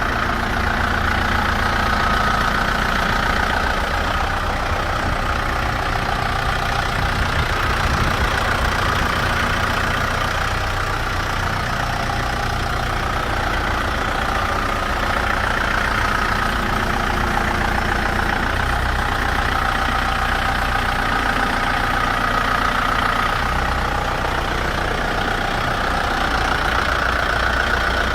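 Kubota M7040 tractor's diesel engine running steadily at a constant speed.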